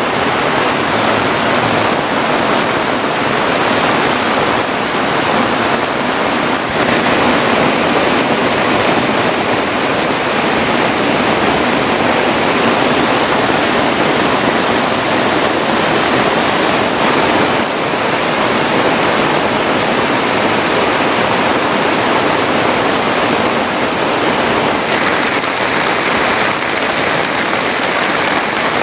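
Heavy tropical rain falling steadily, with rainwater pouring in a stream off a tarp roof into a plastic jerrycan.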